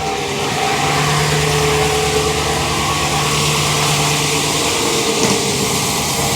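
2009 Dodge Ram 1500's 5.7 Hemi V8 idling steadily just after start-up, after a rebuild that left it with a tick the owner suspects is in the driver's-side valve train.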